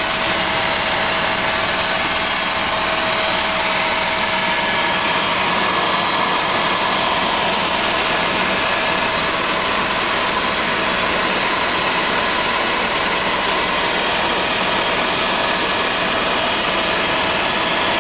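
Tour helicopter's turbine engine and rotor running with a steady, unbroken noise and a few faint steady tones.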